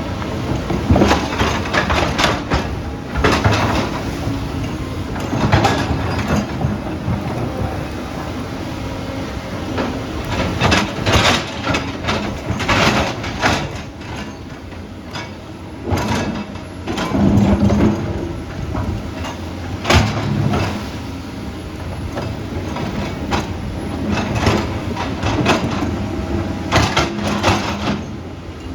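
Tracked earthmoving machine at work: a diesel engine running steadily under irregular loud metal clanks and scrapes from its tracks and blade or bucket.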